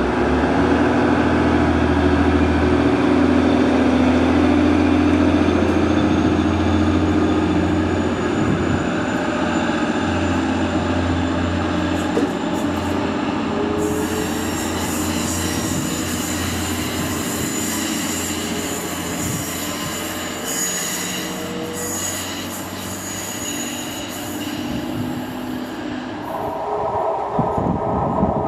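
TransPennine Express Class 185 diesel multiple unit pulling away from the platform, its diesel engine droning low and steady, with tones rising slowly in pitch as it gathers speed. From about halfway a high steady squeal from the rails joins in as another train approaches.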